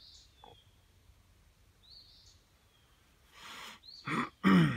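A bird gives a short rising chirp about every two seconds over faint outdoor background noise. Near the end a man breathes in audibly, then makes two short vocal sounds, the loudest thing heard.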